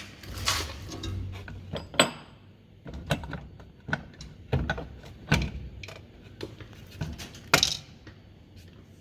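Metal parts and hand tools clanking and knocking irregularly as a Fisher & Paykel direct-drive washer motor is taken apart. One sharp metallic clank about two seconds in rings briefly, and another loud knock comes near the end.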